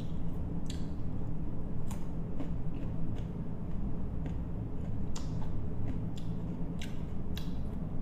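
Close-miked chewing of crisp green mango slices, with sharp, irregular crunches every second or so over a low steady hum.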